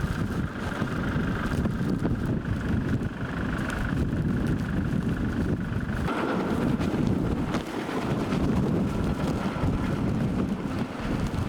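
Storm wind blowing hard across the microphone, a dense gusting rumble of wind noise.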